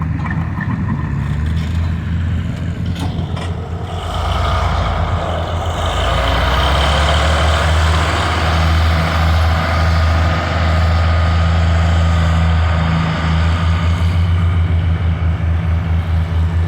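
Antique farm tractor engine working under load while pulling the weight sled, a steady throb that grows louder about four seconds in and holds.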